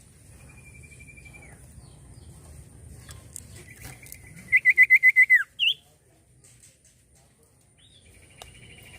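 Common iora (cipoh) singing. A drawn-out whistle comes first. About four seconds in, a long whistle breaks into a loud, fast trill of about seven notes that drops in pitch at the end, followed by a short rising note, and another trill starts near the end.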